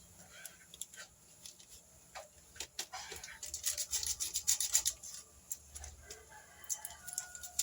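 Spoon clicking and scraping against a bowl or jar as an ingredient is added to the dough, in a run of quick sharp taps. A hen clucks faintly in the background near the end.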